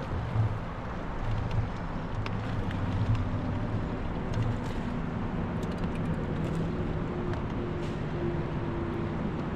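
Boat motor running steadily with a low hum, a few light clicks over it.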